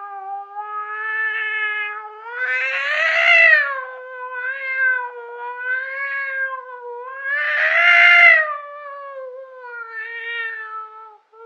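A cat yowling (caterwauling) in one long unbroken howl whose pitch wavers up and down, swelling louder twice, about three seconds in and again near eight seconds.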